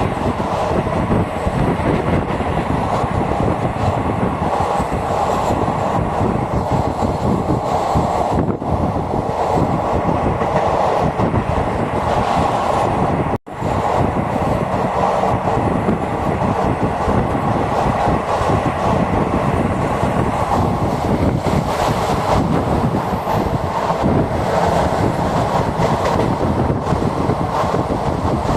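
Jhelum Express passenger train running at speed: a steady, loud rumble of wheels on rails. The sound cuts out for an instant about halfway through.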